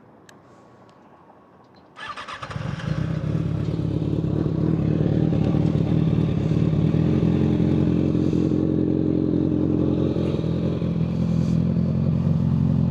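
Kawasaki ZX-6R 636 inline-four with a Yoshimura full exhaust starting up about two seconds in. It gets louder over the next few seconds, then idles steadily.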